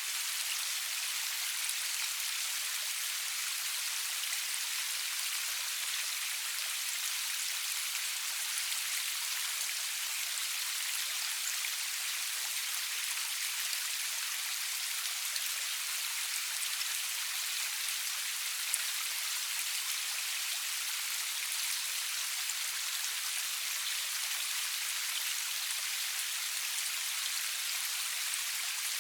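Steady rain falling, an even hiss of many drops with fine scattered patter and no thunder.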